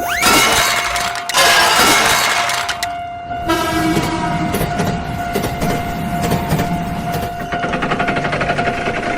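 Train sound effect: a passing train's loud rush and rumble, with rhythmic wheel clatter near the end, over a steady held tone.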